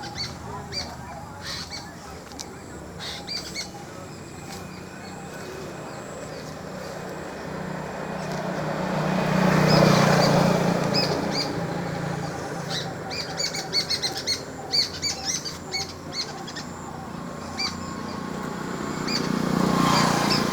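A small bird chirping in short, high, repeated notes. A vehicle passes about halfway through, its noise swelling and fading, and another swells near the end.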